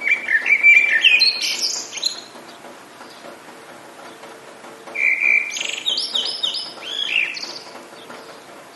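A songbird sings two phrases about five seconds apart, each opening on a steady note and climbing into a quick run of higher notes, over a steady background hiss.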